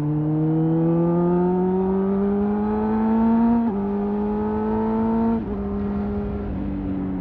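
Honda CBR600RR inline-four engine pulling under acceleration, its pitch climbing steadily, then dropping sharply at two quick upshifts about 3.7 and 5.4 seconds in before settling into a steady cruise. Low wind rumble runs underneath.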